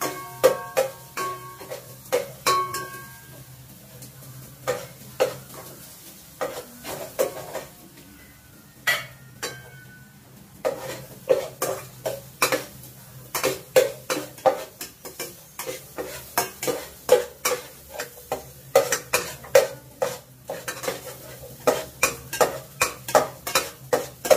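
A metal ladle stirring mussels in a stainless steel pot on the stove, scraping and clanking against the pot in quick runs, with the pot ringing on some strikes. The stirring thins out for a few seconds early on, then picks up again, over a low steady hum.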